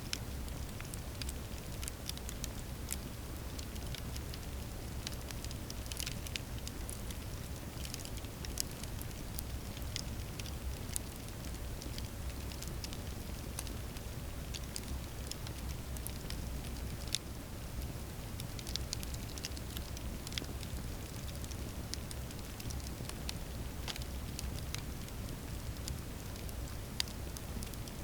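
Campfire burning steadily, with irregular sharp crackles and pops over a low rumble of the flames.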